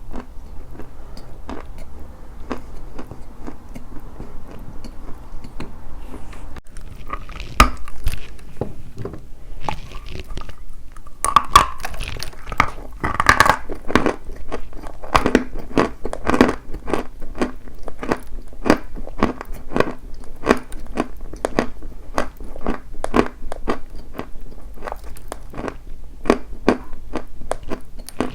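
Dry white chalk being bitten and chewed close to the microphone: a long run of crisp crunches, sparser at first and then a steady two to three a second from about halfway, with one sharp loud crack about eight seconds in.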